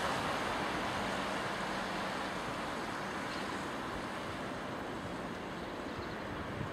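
Electric London Overground train running, a steady rushing noise with a faint low hum that slowly gets quieter.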